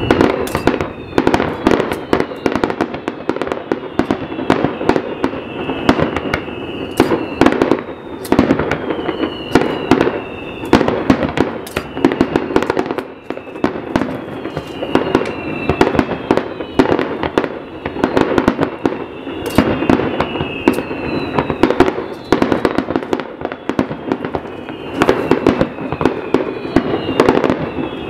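Fireworks display going off: a dense, continuous run of sharp bangs and crackles from launches and bursts. Whistles that fall in pitch recur about every two seconds.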